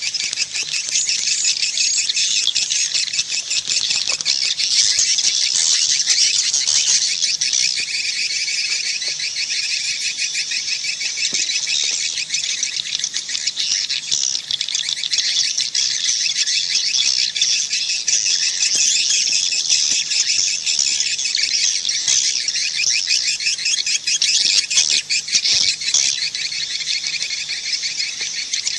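A dense, unbroken chorus of swiftlets twittering, a steady mass of rapid high chirps with no pause. This is a swiftlet calling sound ('suara panggil'), the kind of recording played at swiftlet farms to draw the birds in.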